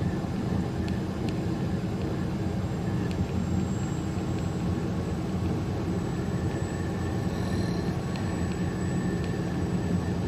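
Steady engine and road drone inside a truck cab moving at road speed, with a few faint ticks.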